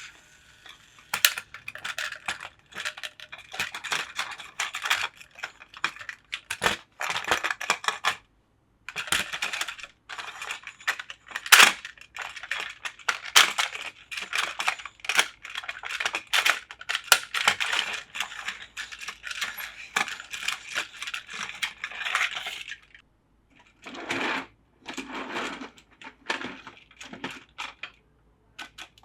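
Hard plastic toy parts clicking and clattering in quick, irregular runs, broken by a few short pauses.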